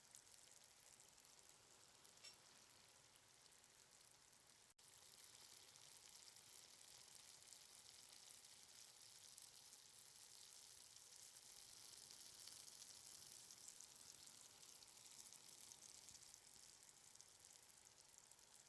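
Faint sizzling and crackling of marinated chicken pieces frying in hot oil in a pan, with a brief cut-out about five seconds in.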